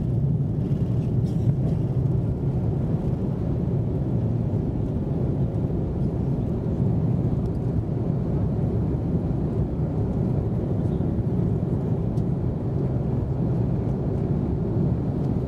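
Steady low rumble of an Airbus A330-200's Rolls-Royce Trent 700 engines and airflow, heard inside the passenger cabin during departure.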